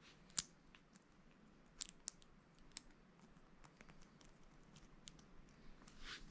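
Small plastic clicks and taps of Lego bricks being handled and snapped together, with four sharper clicks in the first three seconds and a brief rustle near the end.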